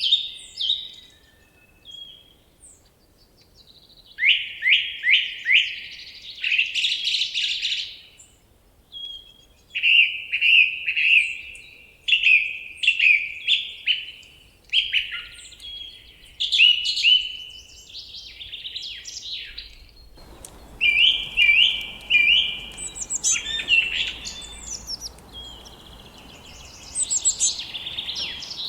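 Songbirds singing in repeated phrases of quick downward-sweeping notes, with short pauses between phrases and a longer lull about a second in. About two-thirds of the way through, a steady background hiss comes in under the song.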